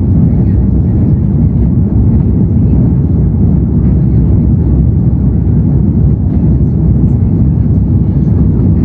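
Airbus A330-300's Pratt & Whitney PW4168A engines at climb thrust, a steady, loud, deep rumble that holds even throughout.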